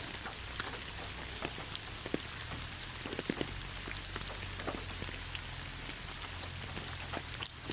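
Steady rain falling, an even hiss dotted with many separate drops tapping on a surface.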